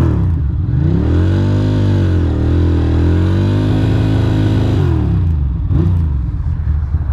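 Ducati Monster's L-twin engine revved hard through a burnout, the rear tyre spinning on the wet road. The revs climb, dip briefly about two seconds in, climb again, then fall away about five seconds in.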